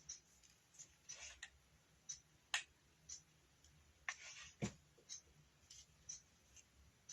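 Near silence with faint scattered clicks and short rustles from hands working rope and a hot glue gun. A sharper tick comes about two and a half seconds in and a soft thump a little past four and a half seconds.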